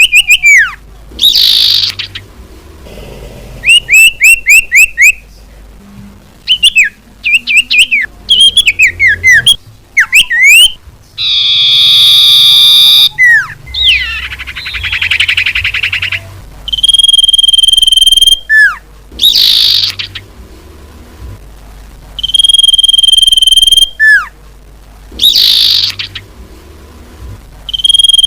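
Bird-lure playback of common iora (cipoh) calls: quick falling chirps in short runs, a long high whistle held for about a second that comes back about every five seconds in the second half, and a buzzy call about twelve seconds in.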